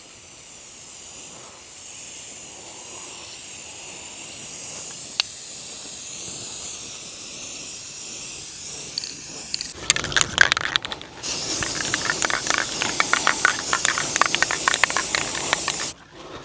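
Aerosol spray paint can hissing steadily as black paint is sprayed onto the greenhouse frame. About ten seconds in, a louder crackling rustle takes over. It stops for a moment and then carries on.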